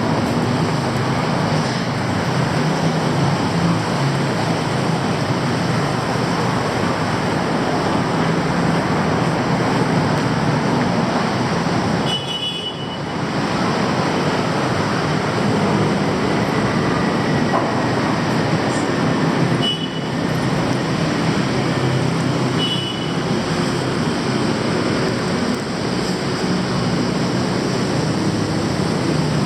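Loud, steady rumble of dense city traffic, with short high-pitched squeaks about twelve seconds in and twice more later.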